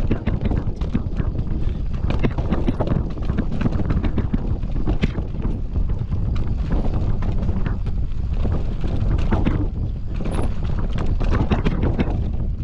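Mountain bike descending a rough dirt trail: tyres rumbling over the ground, with constant irregular knocks and rattles from the bike over roots and rocks.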